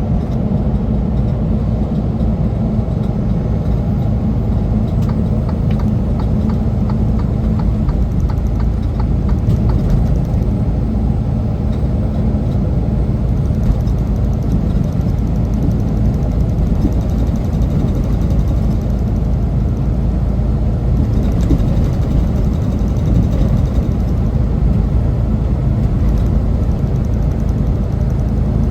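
Semi truck running steadily under way, a continuous deep engine and road rumble with no change in pitch or load.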